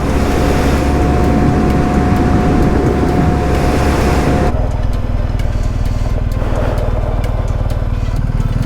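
A motorcycle running at road speed, its engine under heavy wind rush. About halfway through the sound cuts abruptly to a steadier, lower engine drone with much less wind.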